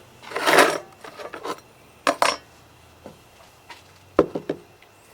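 Workshop parts and tools being handled on a workbench: a short scrape about half a second in, then a few sharp clinks and knocks, two near two seconds in and a couple more near four seconds.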